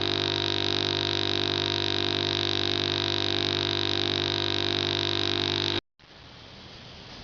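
A steady, unchanging drone of many held tones, high and low, that cuts off suddenly about six seconds in, followed by a faint even hiss.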